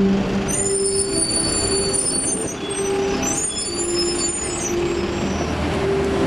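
Metrolink tram wheels squealing on the track in two long, high-pitched squeals, over the steady noise of buses and trams.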